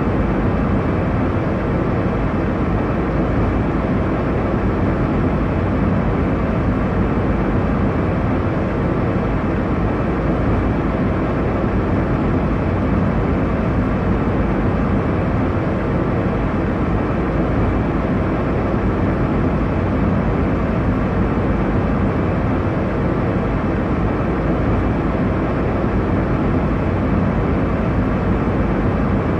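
Steady airliner cabin noise in flight: an even, unchanging low rumble and rush of engine and airflow noise.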